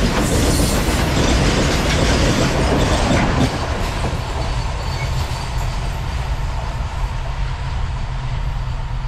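A loaded freight train of covered goods wagons rolling past over the rails, its wheels clattering and rumbling. The tail of the train passes about three and a half seconds in, and the sound drops to a lower, fading rumble as the train pulls away.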